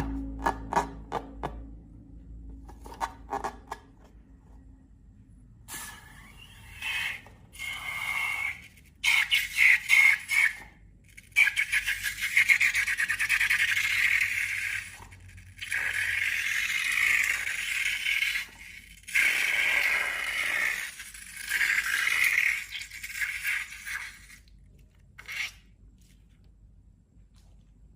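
A few light clicks, then repeated scraping in stretches of one to four seconds with short pauses between them.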